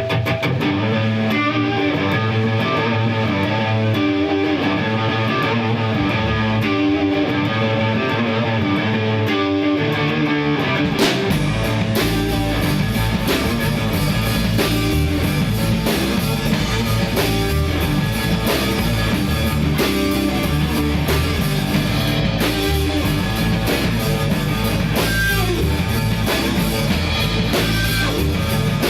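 Recorded rock song by a three-piece band: a guitar plays alone, then bass and drums come in about eleven seconds in and the full band plays on.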